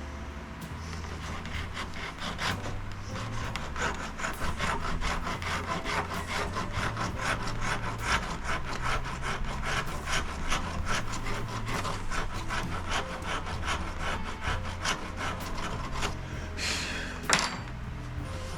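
Quick, rhythmic back-and-forth strokes of a hand tool working the wood of a walnut chair joint, cleaning out the old glue joint before regluing. A brief louder scrape comes near the end.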